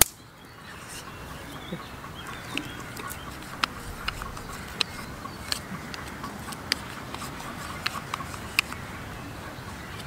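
Birds chirping and clucking in the background, with irregular short sharp clicks over a steady outdoor hiss.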